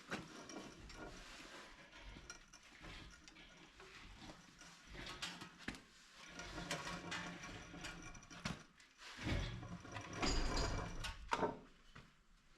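Irregular mechanical clicks, scrapes and knocks from work on the separated halves of a tractor split at the bell housing, with a louder, rumbling stretch about nine to eleven seconds in.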